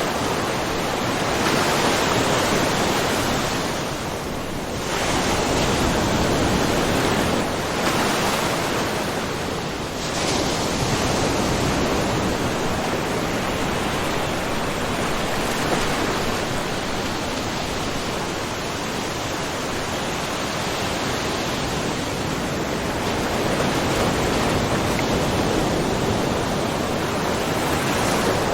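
Small ocean waves lightly splashing against a rocky shore, a steady wash of surf that swells and eases every few seconds.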